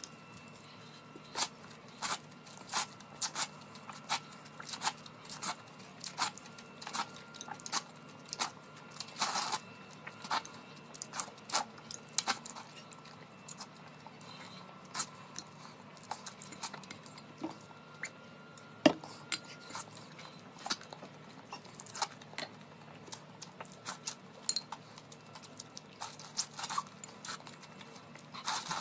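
Close-miked mukbang eating sounds: wet chewing and lip smacks as someone eats noodles and saucy food, an irregular run of short mouth clicks about one or two a second, with one louder click a little past the middle.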